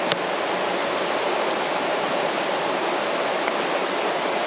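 A mountain stream rushing over rocks, a steady even rush of water.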